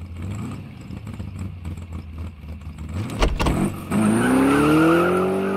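Car engine running at idle, a sharp bang about three seconds in, then the engine revving up, its pitch rising and then holding.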